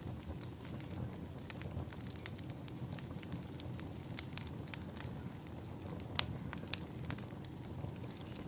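Wood fire crackling: irregular sharp pops and snaps over a low steady rumble, with one louder pop about six seconds in.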